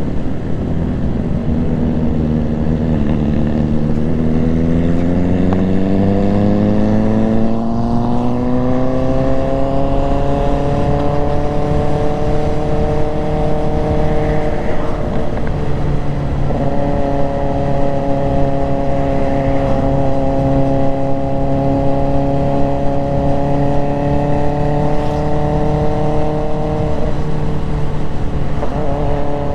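Motorcycle engine pulling up through the revs over several seconds, then holding a steady cruising note, with small shifts in pitch about halfway and again near the end. A steady low rush of wind runs underneath.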